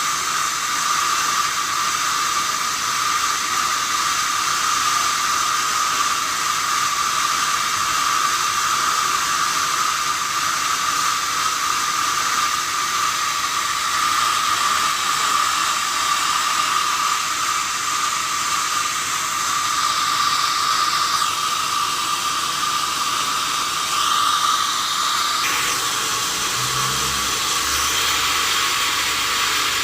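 Sawmill saw cutting through a wadang log, a steady noisy whine. Near the end the whine eases and a lower hum comes in.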